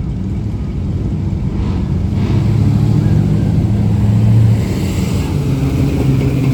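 Truck engine running with a low, steady rumble that swells to its loudest about four seconds in, then eases.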